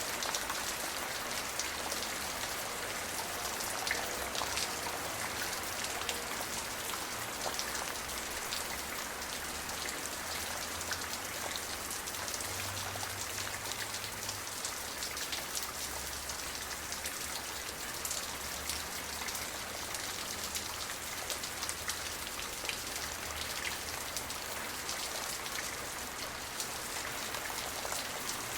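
Steady rain falling, a dense even hiss with many individual drops ticking on a hard surface.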